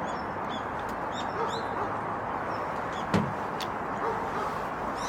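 Firewood fire crackling with a steady rush, several sharp pops, the loudest about three seconds in. Small birds chirp faintly.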